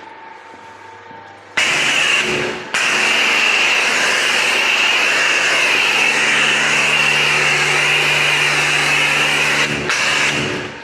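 Car-wash pressure washer spraying: the hiss of the water jet over the steady hum of the pump. It starts about one and a half seconds in, cuts out briefly, then runs steadily and stops near the end.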